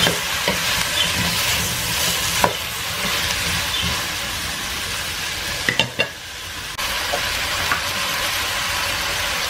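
Diced sweet potato and leek sizzling as they fry in a stainless steel pot, stirred with a wooden spoon that knocks against the pot a few times. The sizzle is steady and dips briefly about six seconds in.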